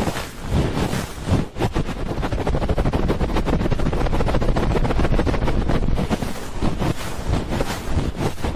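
ASMR 'helicopter' ear-rubbing trigger: hands rubbing a microphone's ears very fast and close, a dense run of rapid rubbing strokes.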